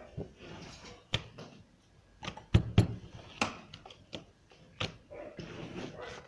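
Irregular sharp knocks and taps of dough and utensils being handled on a kitchen work surface, with soft rustling between them; the loudest knocks come in a cluster a little past halfway.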